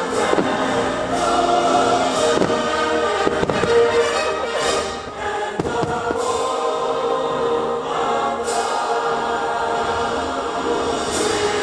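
Fireworks show soundtrack: choral and orchestral music with fireworks popping and banging over it, a burst every second or two.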